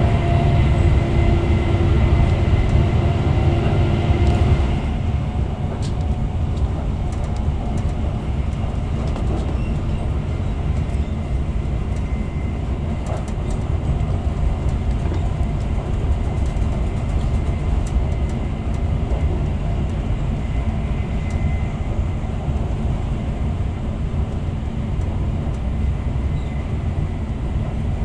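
Running noise inside a Class 68-hauled Chiltern Railways passenger coach at speed: a steady rumble of wheels on rails. For the first five seconds or so it is louder, with a steady hum, then drops suddenly to a lower, even rumble with a few light clicks, as the train leaves a tunnel into open air.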